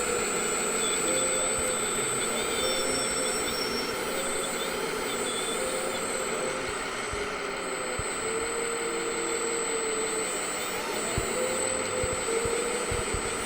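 Simulated truck engine sound from a radio-controlled model's electronic sound module, running steadily at idle, with a faint murmur of voices behind it.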